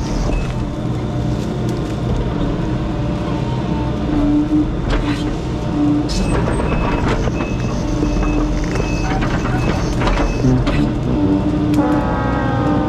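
Excavator's diesel engine working hard as the machine tracks forward and pushes against a tree, with a travel alarm beeping in short bursts. Near the end a whining tone falls in pitch.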